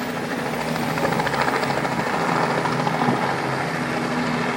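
Helicopter running: a steady engine drone with a fast, even rotor chop.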